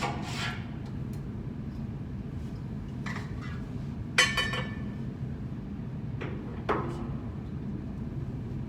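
Metal clinking and knocking on metal, four separate strikes, the loudest a brief ringing clink about four seconds in, over a steady low hum.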